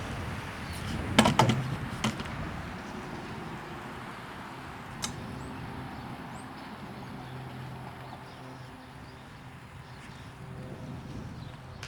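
Small firecrackers fused together going off: a quick cluster of sharp pops about a second in, another pop about two seconds in and a last one about five seconds in, over wind noise.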